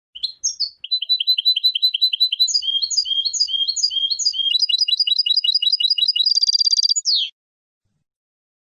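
European goldfinch singing one long phrase of rapidly repeated chirping notes that speed into a faster trill, then a short buzzy note and a falling slide; the song stops about seven seconds in.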